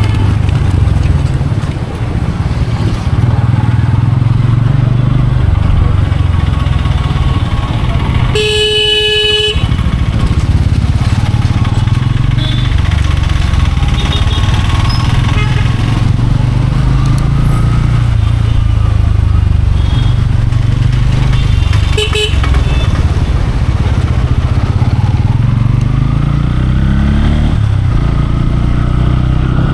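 Motorcycle running steadily through city traffic. A loud vehicle horn sounds for about a second about a third of the way in, and a shorter horn toot comes near the two-thirds mark.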